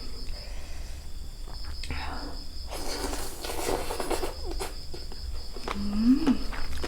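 Close-up chewing and crunching of food, with scattered wet clicks and a short rising hum from the eater near the end. A steady cricket chirring runs underneath.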